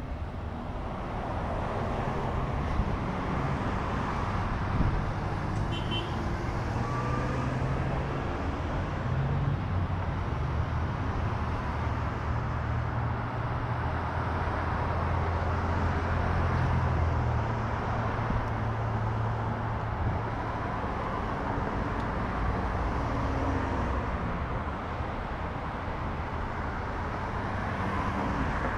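Steady road traffic noise: motor vehicles running by, with a low engine hum that is strongest from about a third of the way in to just past the middle. A brief high squeak comes about six seconds in.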